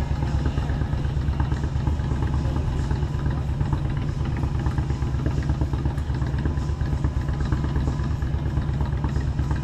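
Motorcycle engine running steadily under way, a constant low rumble with rapid, even firing pulses.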